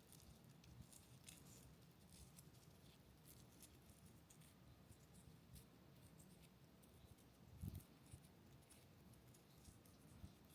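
Near silence with faint scattered clicks and small handling sounds, and one soft low thump about three-quarters of the way through.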